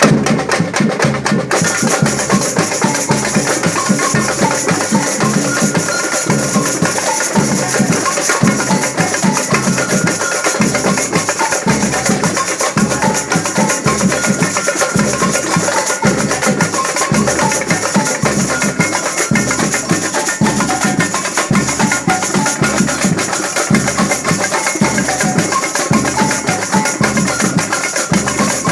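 A band playing, driven by a dense, steady drum and percussion rhythm, with some pitched instrument notes above it.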